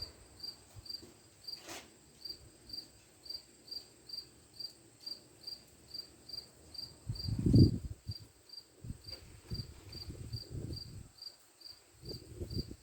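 A cricket chirping steadily, about two to three short chirps a second, all at one high pitch. A click comes about two seconds in, and a dull thump comes a little past halfway, followed by softer knocks of handling.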